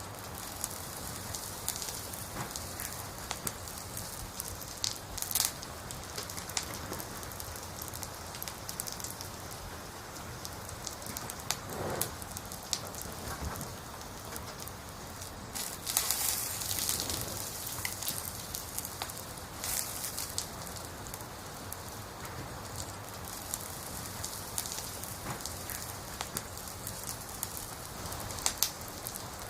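Firewood burning in a campfire: a steady hiss with constant crackling and sharp pops, a few louder bursts of crackle now and then.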